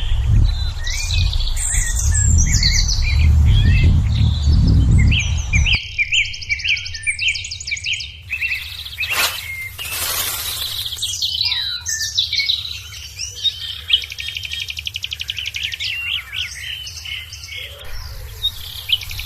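Several birds chirping and whistling, with rapid trills of quickly repeated notes. A low rumble sits under the first six seconds and cuts off abruptly.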